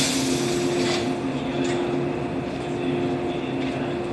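Standing 115-series electric train humming steadily, its onboard equipment giving a low, even tone. A hiss of air trails off in the first second.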